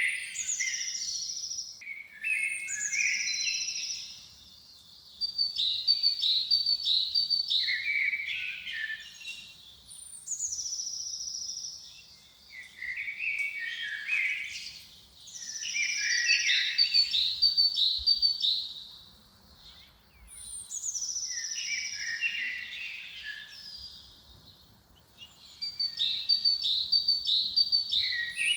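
A songbird singing repeated song phrases a few seconds apart. Each phrase opens with a high falling whistle and runs into a quick string of chirpy notes.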